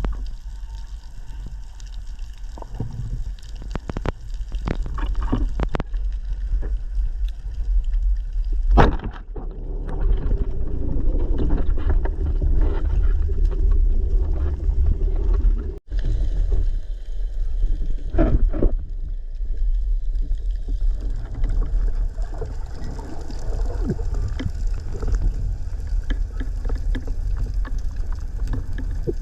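Underwater ambience picked up by a camera in its housing: a steady low rumble of moving water with many scattered clicks and crackles. A sharper click comes about nine seconds in, and the sound cuts out for an instant about sixteen seconds in.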